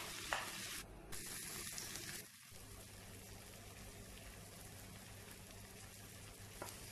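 Sliced onions, tomato, green chillies and curry leaves sizzling softly in oil in a non-stick wok, with a few sharp taps and scrapes of a wooden spatula in the first two seconds; after that the frying settles to a quieter, even sizzle.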